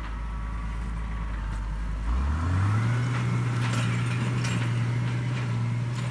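A vehicle engine running at a steady low speed, then picking up speed a little over two seconds in and holding steady at the higher speed.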